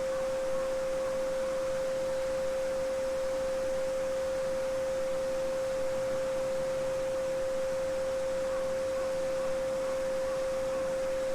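A steady pure 528 Hz sine tone held without change, over the faint even rush of a babbling brook.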